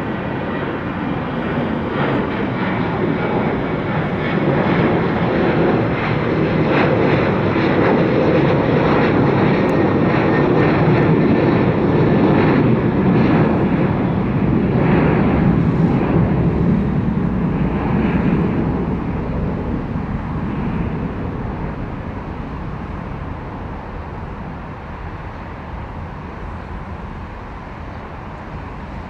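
Jet airliner's engines at takeoff power as it climbs out and passes, swelling to a peak about halfway through and then fading away. A thin high whine sounds over the first half.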